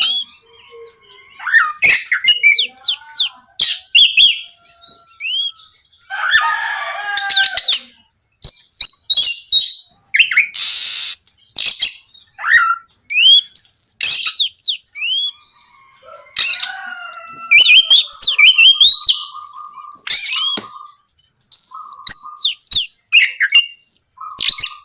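Oriental magpie-robin (kacer) singing loudly, in phrases of quick rising whistled notes broken by a few harsh rasping notes and lower buzzy notes, with short pauses between phrases.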